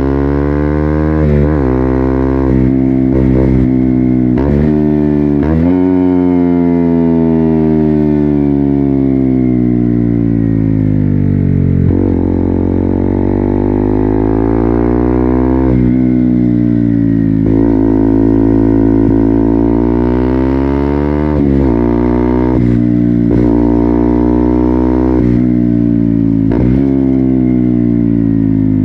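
KTM Duke 200's single-cylinder engine through an Akrapovic full-system exhaust, accelerating through the gears: the pitch climbs, then drops sharply at each upshift. In between it falls slowly for several seconds as the throttle is rolled off.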